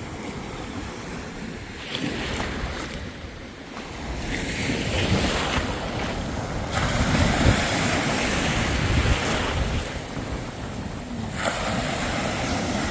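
Ocean surf washing onto the beach, swelling and ebbing every few seconds, with wind rumbling on the microphone.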